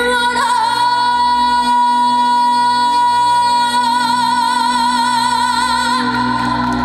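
Female singer holding one long high note in a Korean folk-song (minyo) medley, steady at first and then with vibrato from about four seconds in, over a steady band backing.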